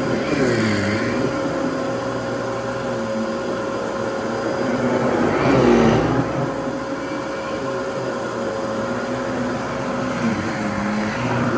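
Fantom Lightning vacuum cleaner running steadily, its motor pitch dipping and coming back up twice, about half a second in and again around five to six seconds in.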